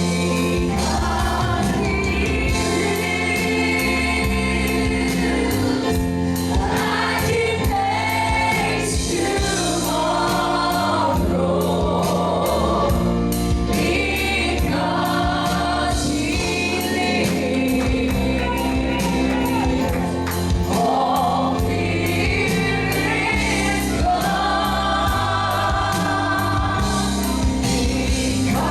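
Congregational gospel song: a choir of voices singing together over a band, with a bass line and a steady drum beat.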